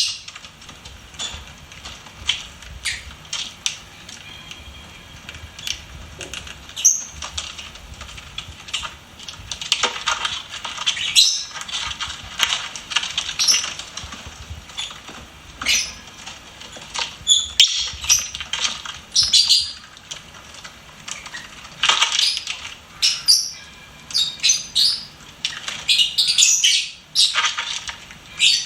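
Lovebirds chirping: short, sharp, high-pitched chirps and squeaks in irregular bursts, thickest about a third of the way in and again near the end.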